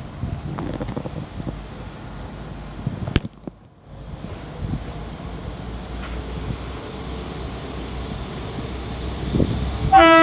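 Wind buffeting the microphone over a low rumble, broken by a sharp click and a brief gap of near silence about three seconds in. Right at the end a train horn starts to sound, the loudest thing here.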